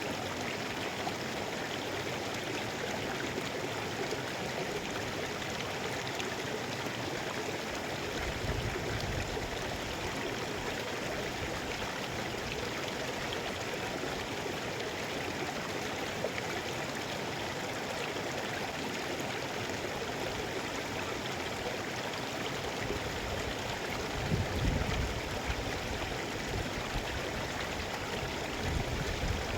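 Mountain river flowing steadily, a continuous rushing of water, with a few brief low rumbles, the strongest about 24 seconds in.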